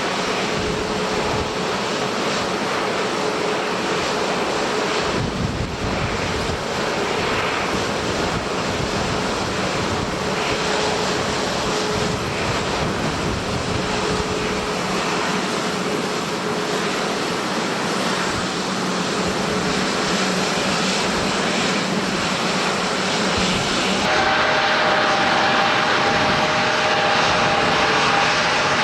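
Airliner engines running: a steady rush with a constant humming tone. About four-fifths of the way in the sound switches abruptly to a louder rush with two higher steady tones.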